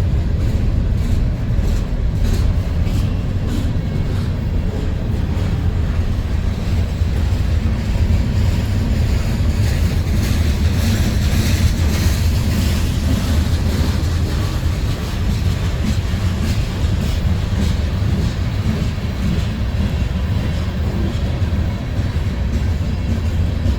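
A train passing close by: a steady heavy low rumble with repeated clicks of wheels over the rail joints.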